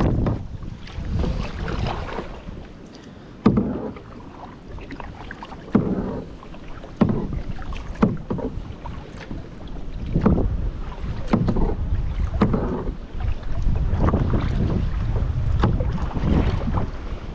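Kayak paddle strokes dipping and splashing in the water, about one a second, over low wind rumble on the microphone.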